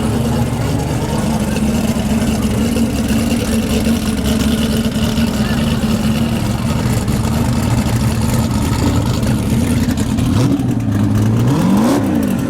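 Drag-race car engine running steadily and loudly, then revved up and back down near the end.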